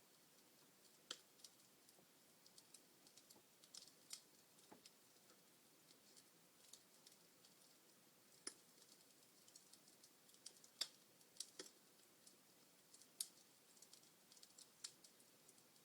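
Wood fire in a fireplace crackling: burning logs give faint, irregular sharp pops and snaps, a few louder ones standing out.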